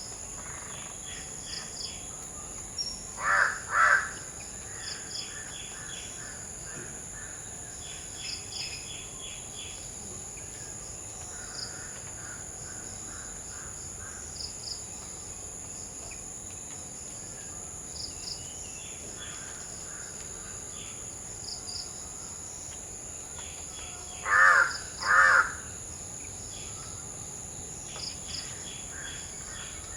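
Crow cawing, two loud caws about three seconds in and two more near the end, over a steady high-pitched insect drone with short faint chirps every couple of seconds.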